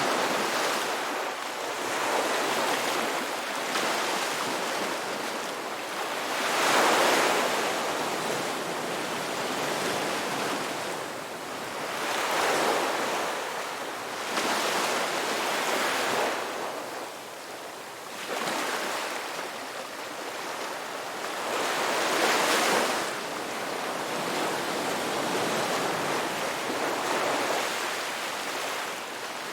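Ocean waves breaking and washing on the shore in slow surges every few seconds, with the loudest breakers about a quarter and three quarters of the way through.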